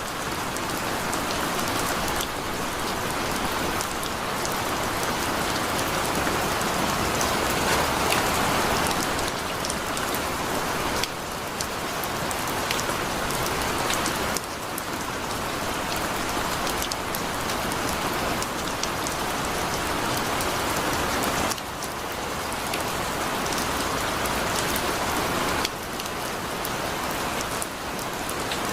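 Heavy rain falling steadily in a dense, even patter. Its loudness shifts abruptly a few times.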